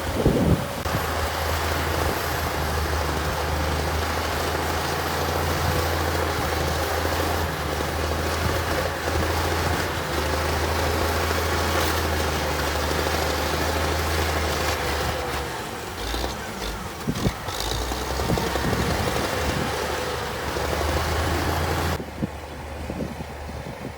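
Heavy diesel earthmoving machine engine running steadily with a deep hum, with a few short clanks about two-thirds of the way through. Near the end the sound drops suddenly to a quieter, duller engine noise.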